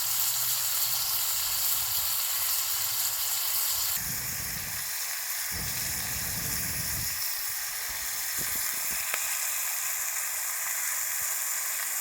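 Pieces of partridge frying in hot oil in a pan, a steady sizzle. A low rumble comes in for a few seconds in the middle.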